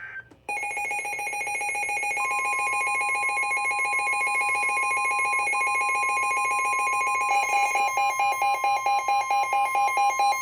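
NOAA Weather Radio warning alert: a buzzing electronic alarm starts, joined about two seconds in by the steady 1050 Hz Warning Alarm Tone that signals a warning broadcast. About seven seconds in, the buzz turns into a fast pulsing.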